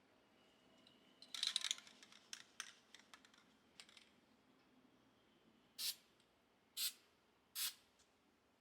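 Clicks and rattles of an aerosol can being handled, then three short sprays of FW1 waterless wash-wax from the aerosol can, about a second apart.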